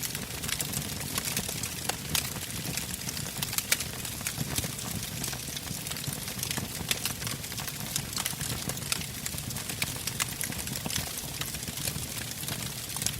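Burning logs crackling, with frequent sharp irregular pops over a steady low rush of flame.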